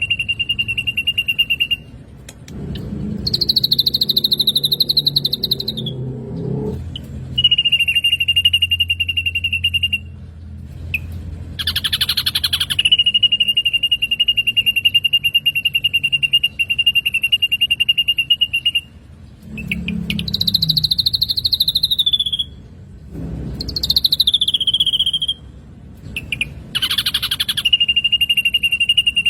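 Black drongo calling: long, rapidly pulsed notes held at one pitch, alternating with higher, wavering phrases that slide down at the end.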